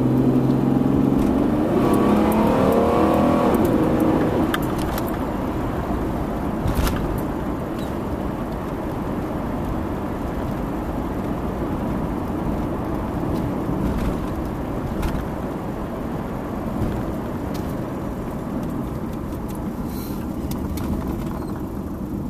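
Inside the cabin of a 1994 Buick Century on the move: engine and road noise, with the engine's pitch rising in the first few seconds as the car speeds up, then steady. Scattered faint ticks come through, which may be the tinny pinging the owner hears from behind the speedometer, a noise that changes with road speed rather than engine speed.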